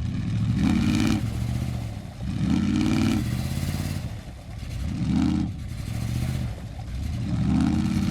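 Truck engine revving hard under load in repeated surges, its pitch climbing with each of about four surges roughly two seconds apart.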